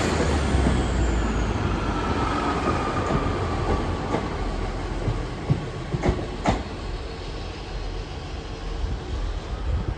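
A train moving through the station, its rumble fading away, with a faint falling whine early on and a few sharp clicks of wheels over rail joints around the middle.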